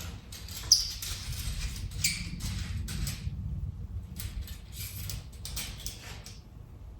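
Light handling noises: an irregular run of short scrapes, rustles and clicks, busier in the first few seconds and thinning out near the end, over a faint low hum.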